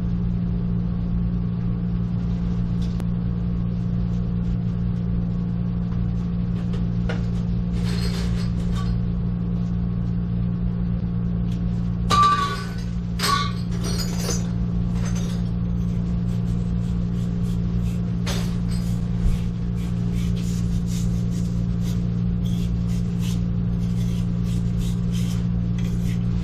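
Metal tools and pipe fittings clinking and knocking as they are handled, with a louder clatter about twelve to fifteen seconds in and small clicks toward the end, over a steady low machine hum.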